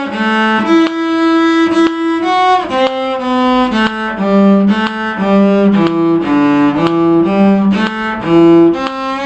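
A bowed string instrument playing a lively fiddle tune: a steady run of held notes changing about every half second, some of them sounding together.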